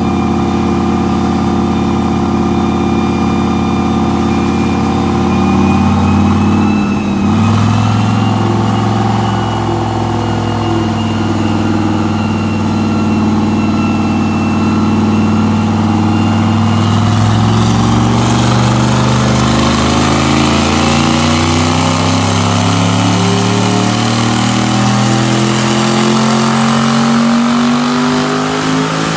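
Turbocharged 5.3 L V8 of a 1999 GMC Sierra with an S480 turbo, running under load on a dyno. It runs steady, breaks briefly about seven seconds in, then from about halfway climbs steadily in pitch through a long pull with a high turbo whine rising alongside, and falls off at the very end. The pull had boost creep, which the owner reports pushed it to 752 hp.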